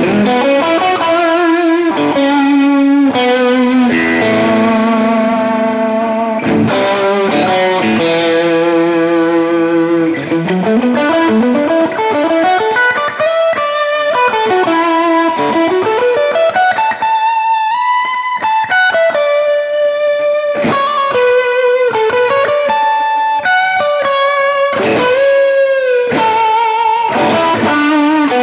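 Electric guitar played through a Fender Blues Junior tube amp with heavy distortion and spring reverb. It plays a lead line of sustained notes with vibrato, bends and slides.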